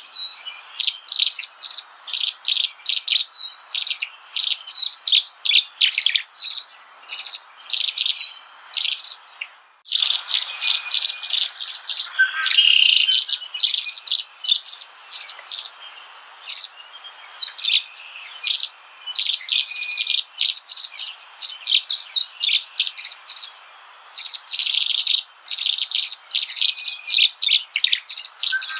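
Small birds chirping continuously in rapid, overlapping high chirps, with a brief break about ten seconds in.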